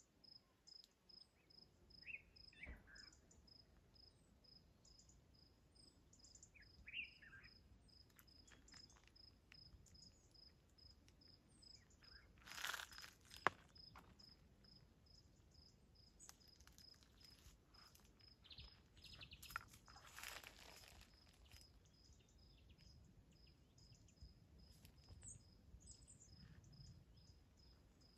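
Faint outdoor ambience: a cricket chirping steadily at a high pitch, about two pulses a second, with scattered bird calls, two of them louder about halfway and two-thirds of the way in.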